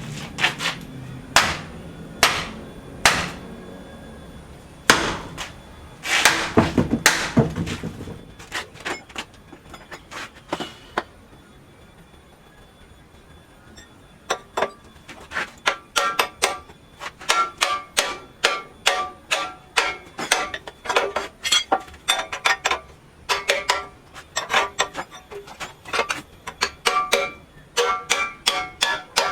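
Hammer blows on metal with a ringing tone. A few single strikes about a second apart come first, then a quick cluster, a pause, and then a long run of rapid, irregular strikes.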